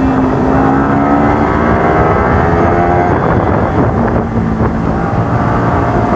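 Motorcycle engine running while riding, its pitch shifting with the throttle and dipping about three to four seconds in, with wind buffeting the microphone.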